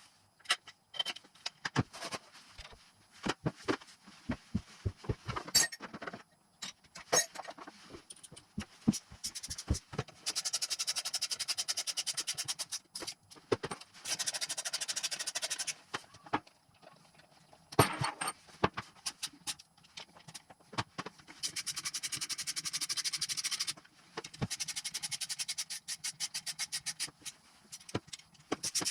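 Hand tools working on a motorcycle engine: scattered metallic clinks and knocks, then several runs of a ratchet wrench ratcheting with rapid, even clicks, each two to three seconds long.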